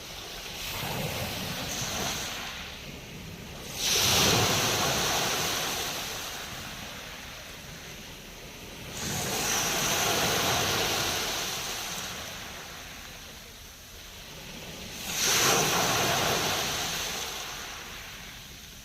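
Sea waves breaking on the shore: three surges of surf about five or six seconds apart, each coming in quickly and fading away slowly.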